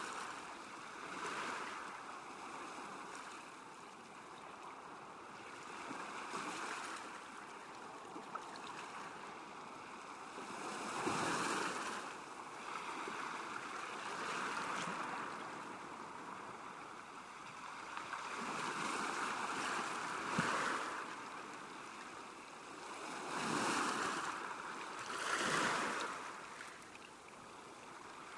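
Small waves lapping at a lakeshore, a steady wash that swells and falls every few seconds, with a few louder washes in the second half.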